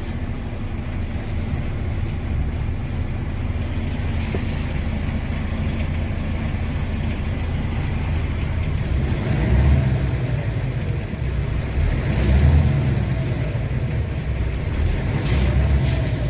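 The Iveco S-Way 580's six-cylinder Cursor 13 diesel engine running with a steady low rumble, rising and falling twice as it is revved, about ten and twelve seconds in. A couple of short hisses come near the end.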